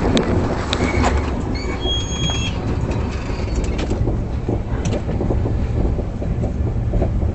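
Indian Railways express train running on the rails: a steady low rumble of the wheels with scattered clicks, and a brief high squeal about two seconds in.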